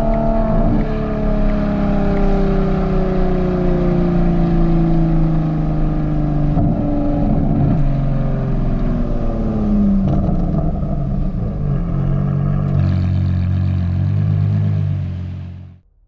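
Ferrari Purosangue's V12 through a Novitec race exhaust, its revs falling slowly as the car slows down, then running steadily at low revs. The sound fades out near the end.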